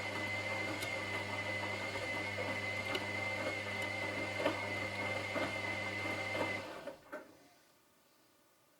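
Washing machine drum motor running with a steady hum, a high whine and light rattling. It cuts out about seven seconds in, followed by a single click and then near silence, as the drum pauses in its cycle.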